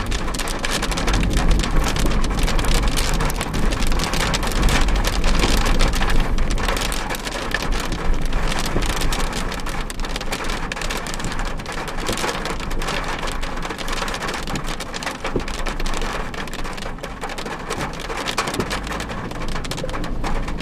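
Heavy rain drumming on a car, a dense patter of drops, heard from inside the car with a steady low rumble underneath.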